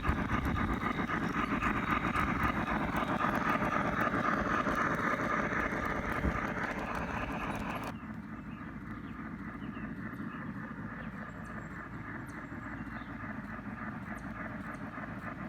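G scale model train running on its track: a steady rumble of wheels and motor with fine, rapid clicking. About eight seconds in the sound drops abruptly to a quieter, similar run.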